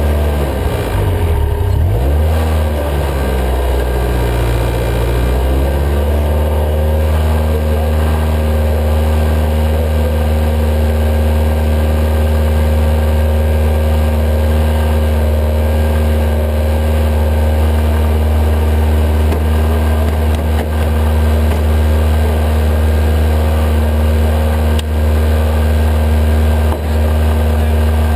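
Vehicle engine running under way. In the first few seconds the revs dip and climb back, then hold at a steady drone.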